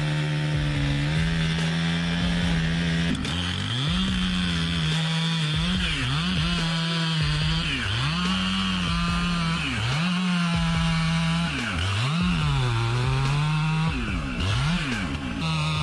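Two-stroke chainsaw running at high revs, its pitch dipping sharply and recovering about eight times as the engine is loaded in the cut.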